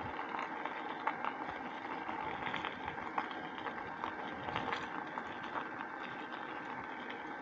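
Bicycle rolling over a bumpy field track: steady tyre noise with frequent small rattles and ticks from the bike jolting over the rough ground.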